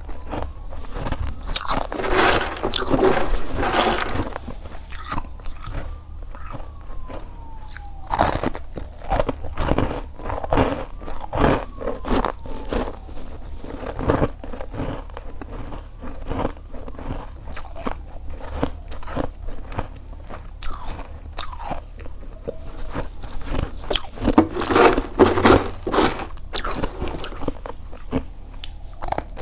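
Close-miked biting and chewing of crunchy freezer frost, a steady run of sharp crunches with two denser spells of crunching, one about two seconds in and one near the end.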